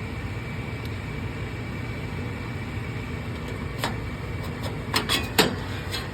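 Furnace blower fan running with a steady low hum, with a few sharp clicks about four and five seconds in.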